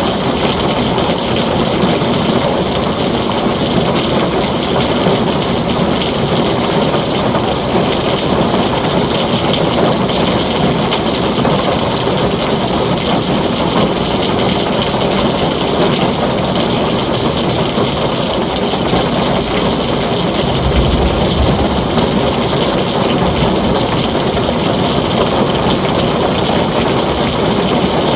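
Heavy rain drumming steadily on a tin roof, with a brief low rumble of thunder about twenty seconds in.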